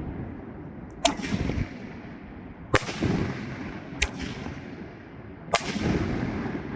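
Pyro Box Sky Bangers 5-inch canister firework shells going off: four sharp bangs in quick succession, a second or so apart, each trailing off in a rumbling echo.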